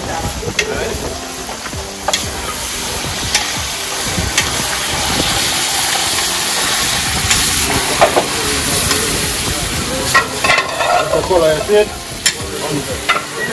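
Food frying in hot oil, sizzling steadily, with a few sharp knocks now and then from a utensil in the pan.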